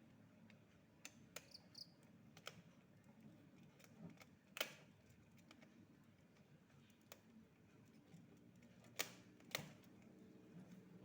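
Near silence over a faint low hum, broken by scattered light clicks and knocks. The loudest is about four and a half seconds in, and two more come close together near nine seconds.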